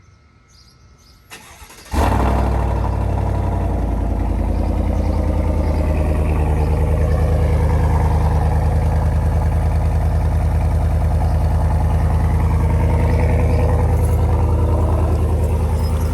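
2020 GMC Sierra 1500 pickup engine cranked and started: after a short crank it catches about two seconds in with a sudden jump in loudness, then idles steadily through the exhaust.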